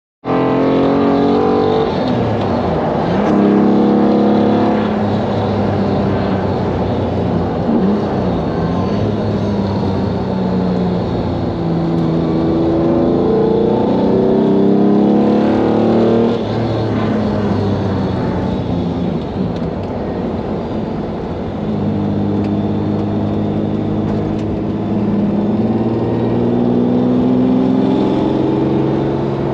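1991 Lamborghini Diablo's mid-mounted 5.7-litre V12 pulling hard uphill, heard from inside the cabin. Its revs climb in pitch and fall back several times as the car accelerates and eases off.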